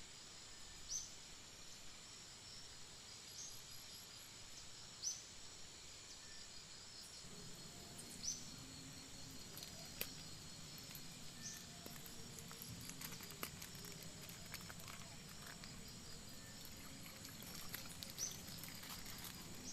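Tropical forest ambience: insects buzzing steadily at a high pitch, with a short rising call repeated every few seconds. About a third of the way in a low hum joins, and scattered faint clicks follow.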